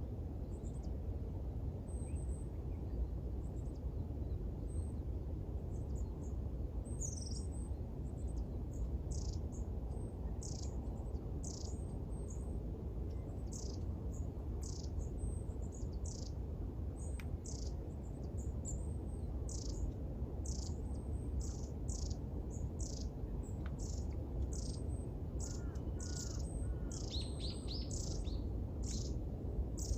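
Birds singing at sunrise: repeated short, high chirps that slide downward in pitch, coming about once a second and more densely toward the end, over a steady low background rumble.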